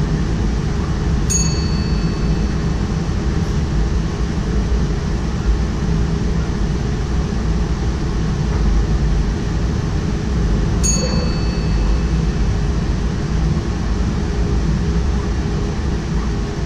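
Steady low rumble of a locomotive-hauled double-deck train running along the track, heard from the driver's cab. A short high bell ding in the cab rings twice, about a second in and again about eleven seconds in.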